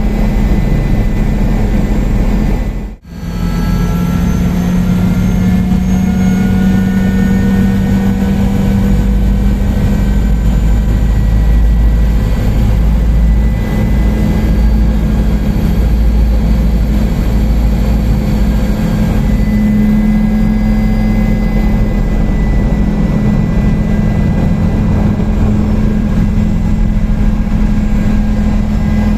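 Helicopter in flight: steady, loud engine and rotor noise, with a brief dropout about three seconds in.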